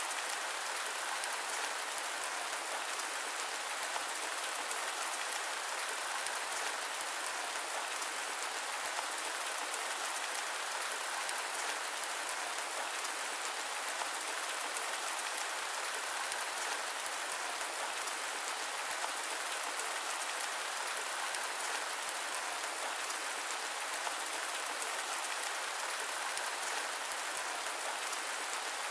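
Steady rain: an even hiss of many fine drops that does not change, with no thunder.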